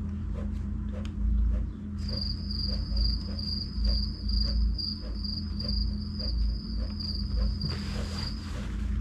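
An insect chirping: a high, evenly pulsed trill at about three pulses a second, starting about two seconds in and stopping near the end, over a steady low hum.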